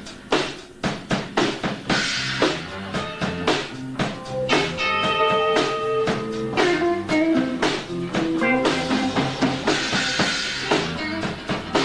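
Live rock band playing an instrumental passage: the drum kit strikes hard hits alone at first, then bass and electric guitars come in with held notes about four seconds in.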